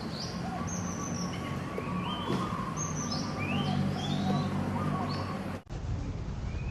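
Birds chirping: repeated short, rising calls over a steady low background hum. A brief dropout comes near the end, after which the chirping carries on.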